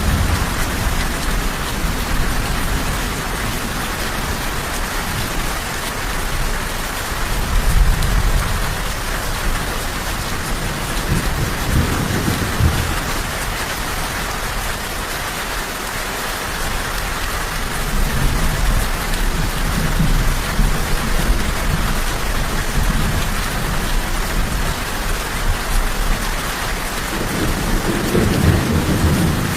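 Steady rain falling. Low rumbles of thunder swell and fade several times beneath it.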